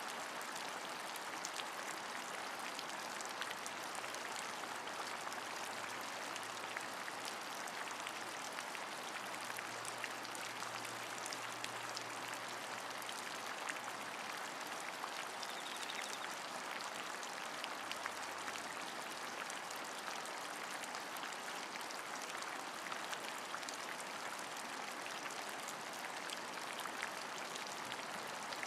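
Steady rain falling, a constant hiss dotted with many small, sharp drop ticks.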